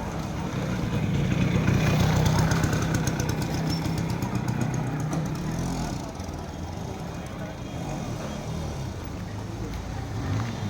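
An engine running: it swells over the first two seconds, holds for a few seconds with a fast fine ticking, then drops off about six seconds in.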